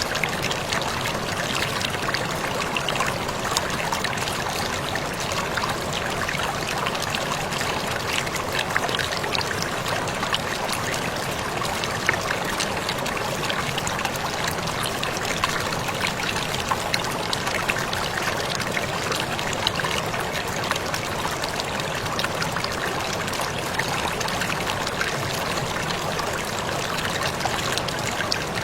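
Waterfall running steadily, falling water splashing and trickling with many small droplet ticks over a constant rush.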